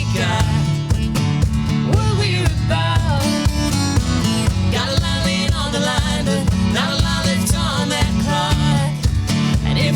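Acoustic country song: singing over strummed acoustic guitar.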